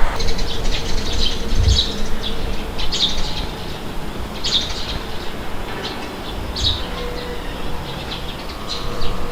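Small birds chirping in short, high calls scattered through, over a steady low rush of wind, with a faint steady hum underneath.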